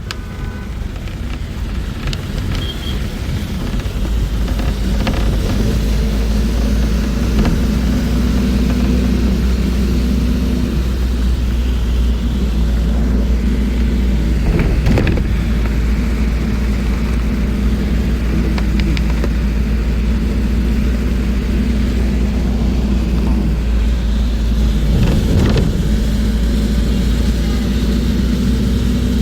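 Moving bus heard from inside: a steady low engine and road rumble that grows louder over the first few seconds as it picks up speed, with occasional short rattles and knocks.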